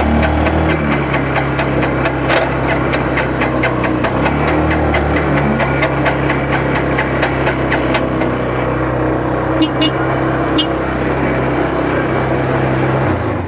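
A small motorcycle engine running at idle after its first start-up. Its speed shifts a couple of times, and it cuts off just before the end.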